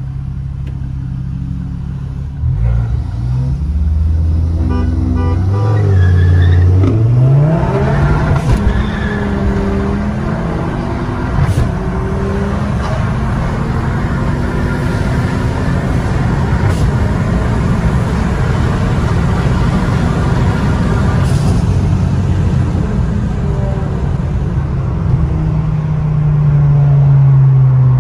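Ford Focus performance car's engine, heard from inside the cabin, accelerating hard. The pitch climbs for a few seconds, breaks at a gear change about seven seconds in, then climbs again more slowly and holds at high revs before settling to a steadier drone near the end.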